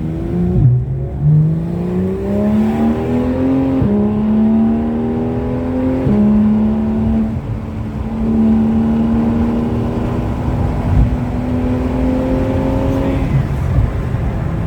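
Porsche 911 flat-six engine at full acceleration, its pitch climbing through each gear and dropping sharply at each upshift. Three quick shifts come in the first six seconds, then a long pull in a higher gear before the revs fall away near the end.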